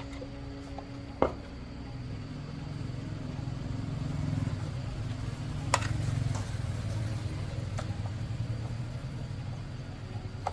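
Motorcycle engine running at idle, rising a little in level midway and then settling. A sharp click sounds about a second in.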